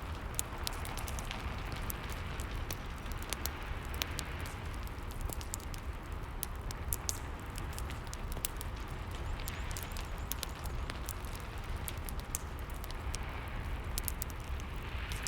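Rain and a crackling wood fire: a steady hiss of rain with a low rumble, under frequent sharp pops and crackles.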